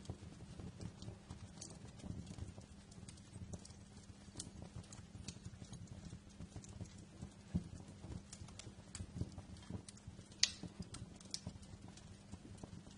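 Fireplace fire crackling: a low steady rumble under irregular pops and snaps, with one sharp pop about ten seconds in the loudest.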